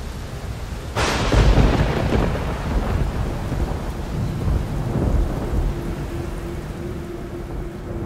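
Steady rain with a sharp thunderclap about a second in that rolls on as a long low rumble, swelling again around four to five seconds in.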